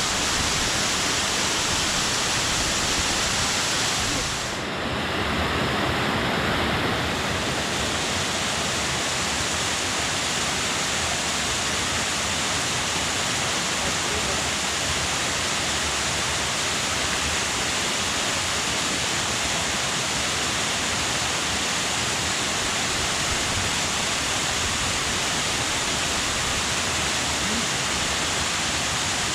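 Steady rush of the Vesenniy waterfall's falling water, dipping briefly about five seconds in.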